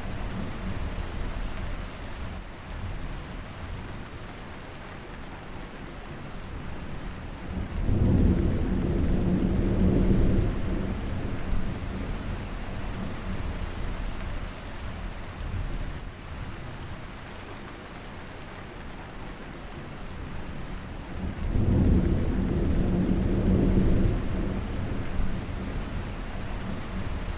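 Steady rain falling, with two low rolls of thunder, each lasting a few seconds: one about 8 seconds in and another about 22 seconds in.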